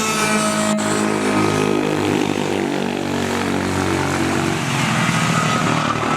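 Racing kart's Subaru KX21 engine running, its pitch easing down over the first few seconds and then holding steady, with a single sharp click about a second in.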